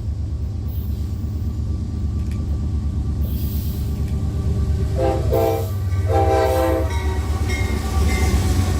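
Diesel freight locomotive sounding its air horn, a short blast and then a longer one about five seconds in, over the steady low rumble of the train.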